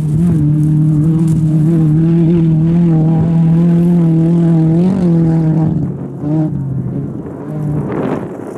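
Volkswagen sedan rally car's engine held at high, steady revs, then backing off about six seconds in with a couple of short blips, before a rushing noise near the end.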